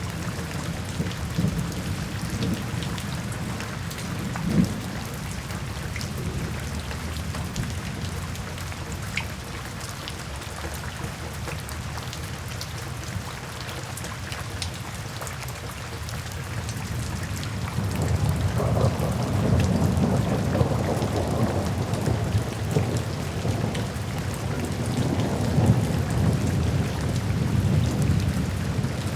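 Steady rainfall with scattered sharp drops, under a low rumble of thunder that swells into a longer, louder roll about two-thirds of the way through.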